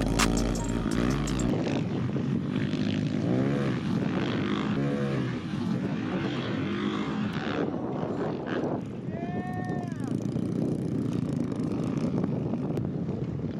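Dirt bike engines running and revving on a motocross track, the pitch rising and falling with the throttle, with one clear rev up and back down near the middle. Background music plays for the first second or so.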